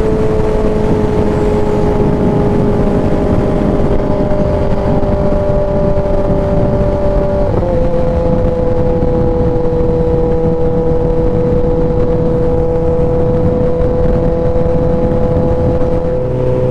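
Kawasaki ZX10R inline-four engine idling steadily through an SC Project S1 aftermarket exhaust, its idle note shifting slightly in pitch about seven and a half seconds in.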